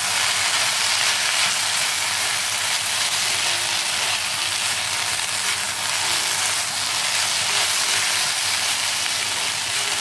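Chopped okra sizzling in hot oil in a kadai, stirred now and then with a spatula, a steady frying hiss. The okra is still partway through sautéing, still a little slimy.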